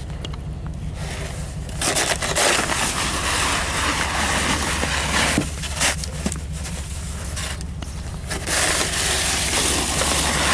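Snow being shoveled: a shovel scraping and crunching through snow in long strokes with short pauses between, over a steady low hum.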